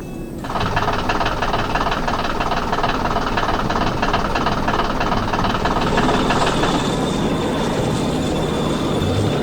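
Heavy machine's engine running with a fast, steady rattle, starting abruptly about half a second in.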